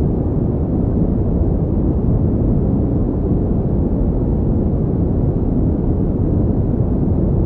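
Steady pink noise: an even, deep hiss with most of its weight in the low end and no change in level.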